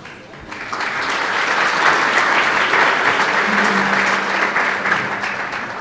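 Audience applauding: the clapping swells about half a second in, holds, and tails off near the end.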